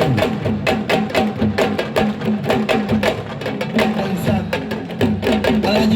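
Fast, dense hand drumming, many sharp strokes a second, with low pitched notes bending up and down beneath: music of the kind played for Senegalese wrestling.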